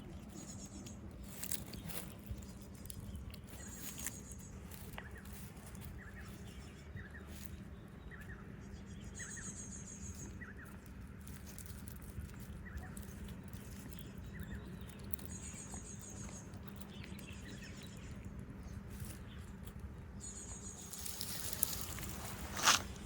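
Birds chirping outdoors: short high chirps, with a higher trill repeating every few seconds over a steady low hum. A sharp, loud sound comes near the end.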